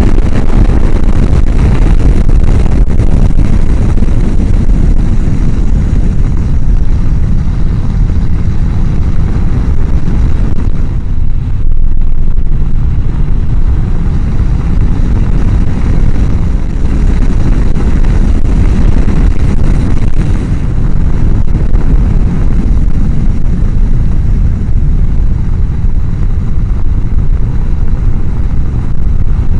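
Heavy wind roar on a helmet microphone mounted behind the chin-bar air vent, over the motorcycle's running and road noise while riding at speed. It is a steady deep rumble, with the higher hiss thinning briefly about eleven seconds in.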